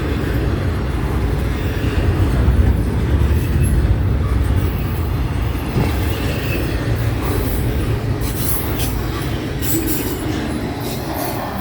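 Long CN freight train rolling past, its cars making a steady heavy low rumble of wheels on rail, with short high squeals and clicks from the wheels in the last few seconds.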